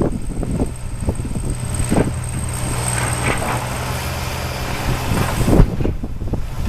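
Diesel freight train hauled by an Alsthom diesel-electric locomotive with an MTU engine: a steady low engine hum with a faint high whine, broken by several sharp knocks.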